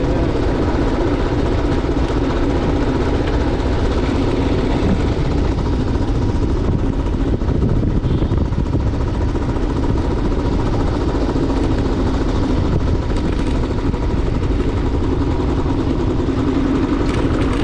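Motorcycle engine running steadily while riding, mixed with a dense rush of wind and road noise.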